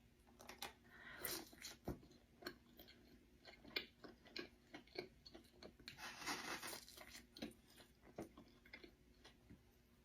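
Close-up eating sounds: a person chewing and biting crunchy food, a string of crisp crackles and clicks, with a denser burst of crunching about six seconds in.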